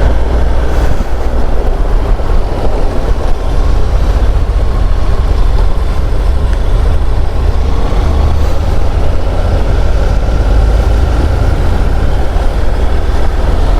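Steady wind rumble on the microphone of a moving motorcycle, with engine and road noise beneath it and no break or change.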